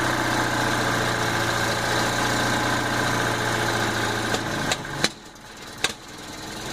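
1967½ Datsun RL411's 1598cc dual-carburettor four-cylinder engine idling steadily on its first run after sitting unstarted for 16 years. A little past halfway a few sharp clicks come, and the sound drops away briefly before it comes back.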